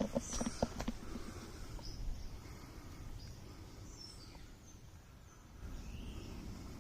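Scattered short bird chirps over a steady low outdoor rumble, with a few sharp clicks, like steps through brush, in the first second.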